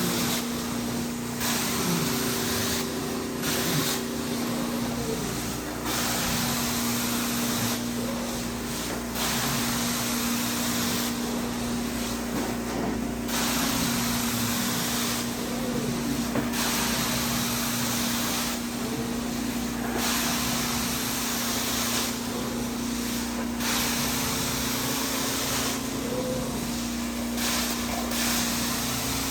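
Hot-water carpet extractor at work: a steady vacuum-motor hum, with the wand's spray-and-suction hiss coming and going in strokes of a second or two.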